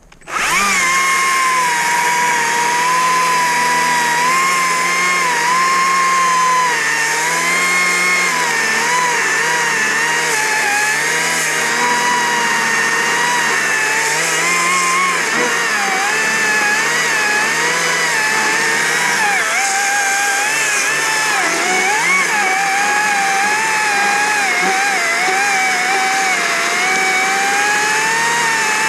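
Stihl MSA 60 C battery-powered chainsaw starting abruptly and running, a steady electric whine whose pitch wavers and dips as the chain works through wood under load.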